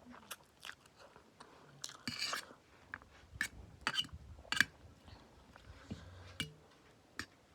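Eating instant noodles: a utensil clicking against a dish several times, with chewing and a short noisy burst about two seconds in.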